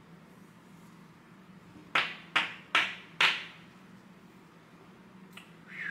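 Four sharp taps in quick succession, about half a second apart, from handling trading cards and their plastic sleeves or holders. A short falling squeak follows near the end.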